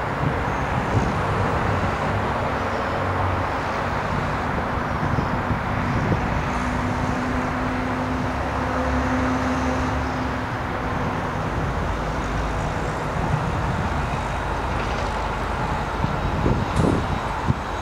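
Distant GO Transit commuter train approaching, a steady low rumble mixed with road-traffic noise, with a faint steady hum for a few seconds in the middle. A few short wind bumps on the microphone near the end.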